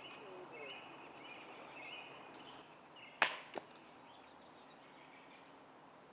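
A disc golf drive thrown off the tee: one sharp snap as the disc rips out of the hand about three seconds in, followed by a smaller click. Faint insect chirping runs through the first half.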